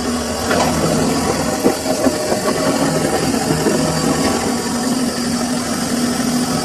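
Samsung washing machine running mid-cycle: a steady motor hum with a few brief knocks about two seconds in.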